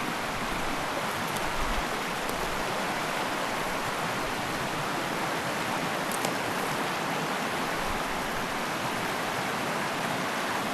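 Fast mountain river rushing, a steady, unbroken noise of churning water.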